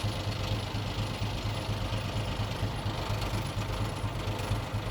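Diesel engine of a Komatsu D20P bulldozer running steadily, with a low throb that pulses several times a second.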